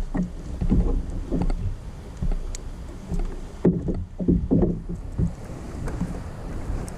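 Water slapping and knocking against a kayak's hull at irregular moments, most strongly about four seconds in, over a steady low rumble.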